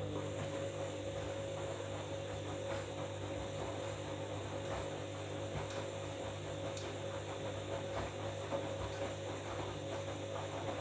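Washing machine pump motor humming steadily, with faint ticking from the water.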